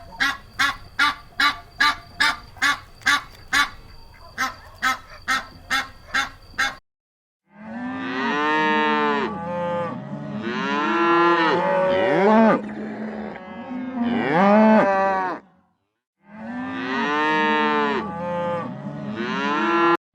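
A goose honking in a fast, even series, about three honks a second. After a short break come cattle mooing, with long calls that bend in pitch and sometimes overlap, in two stretches.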